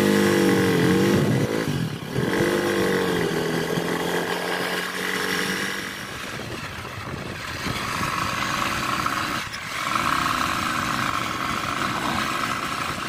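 Bajaj Avenger motorcycle's single-cylinder engine running as the bike rides along the road. Its pitch rises and falls twice in the first few seconds, then it settles into a steadier hum.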